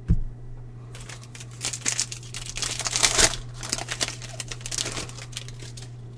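A short thump, then the foil wrapper of a Topps baseball card jumbo pack crinkling and tearing as it is ripped open, for about four seconds and loudest about three seconds in.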